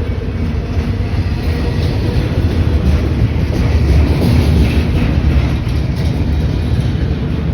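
A passing train: a loud, steady low rumble of wheels on the rails, with faint clicks of the wheels over rail joints in the second half.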